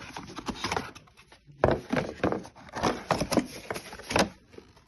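Irregular clicks and light knocks from a hairdryer being handled, sparse at first and then coming thick and fast after about a second and a half.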